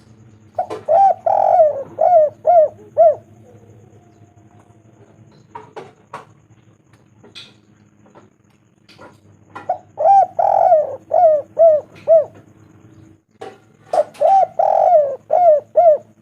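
Spotted dove (tekukur) cooing: three phrases of short, rounded coo notes, one at the start, one about ten seconds in and one near the end, with quieter gaps between.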